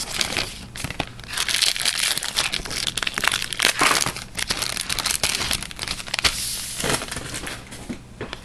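A hockey card pack wrapper being torn open and crinkled by hand: a dense, crackling rustle that is loudest in the middle and dies down near the end.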